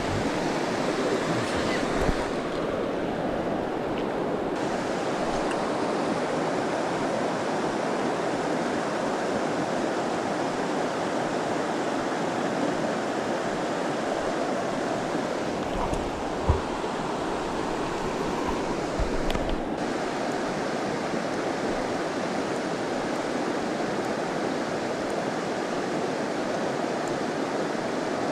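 Steady rush of river water flowing, with a brief knock about sixteen seconds in.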